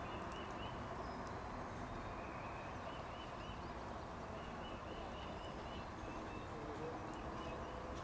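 Steady outdoor background noise, with a bird calling short high chirps in quick runs of several notes.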